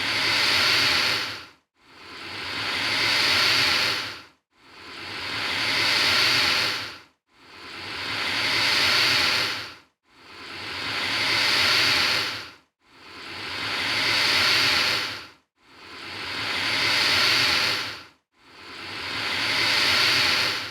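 Alligator hissing over and over: about eight breathy hisses, one roughly every three seconds, each swelling louder before cutting off suddenly.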